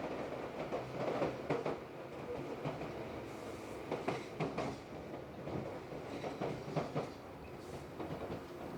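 Tobu 8000 series electric train running, with a steady rumble and irregular wheel clacks and knocks over the rails.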